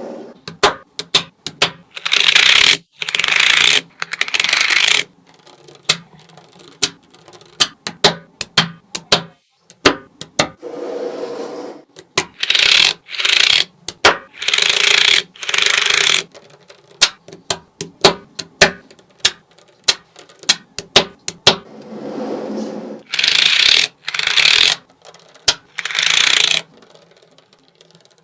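Small magnetic balls clicking sharply as they snap together, over and over at an uneven pace. Three times, a group of longer, second-long rattling bursts of balls sliding and rolling against each other breaks in.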